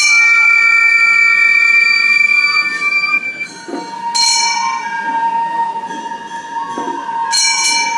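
Gion-bayashi festival music: small brass hand gongs (kane) ringing, with a long held flute-like note that starts about three and a half seconds in. Bright gong strikes come about four seconds in and again near the end.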